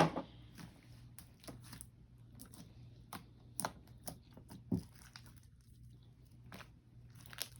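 Clear glue slime being squished and stretched by hand, giving scattered sticky clicks and pops at an uneven pace.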